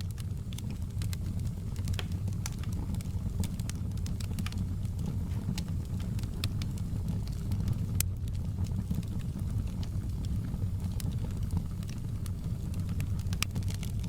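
Wood fire crackling in a fireplace: irregular sharp pops and snaps over a steady low rumble, with one louder pop about eight seconds in.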